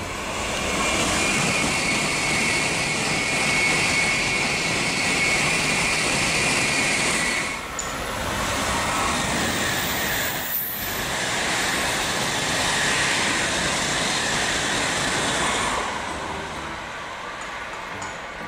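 Shinkansen bullet trains going by at high speed: a loud, steady rushing noise of air and wheels on rail. It breaks off briefly twice, a little before and just after halfway, as one pass gives way to the next.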